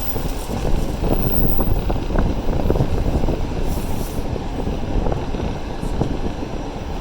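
Passenger train running along the track: a steady rumble of wheels and carriage with scattered light clicks.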